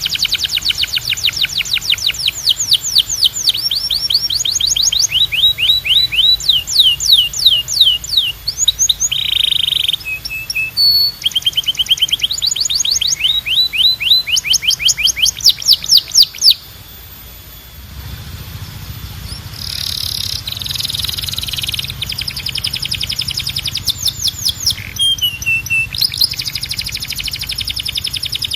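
Canary singing a long song of rapid trills: runs of quick, repeated sweeping notes that change speed and pitch from phrase to phrase. The singing breaks off briefly about two-thirds of the way through, then starts again over a low hum.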